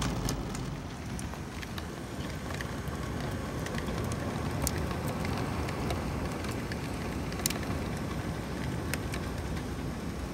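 Heavy rain pouring in a gusty thunderstorm, with a steady low wind rumble on the microphone and scattered sharp taps of drops striking close by.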